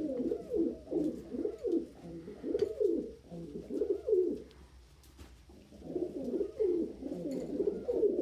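Several domestic pigeons cooing at once, their low calls overlapping, with a brief lull about halfway through.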